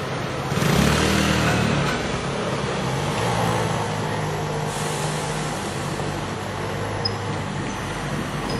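Road traffic: a motor vehicle's engine running with a low hum that shifts in pitch, louder from about a second in, over general street noise.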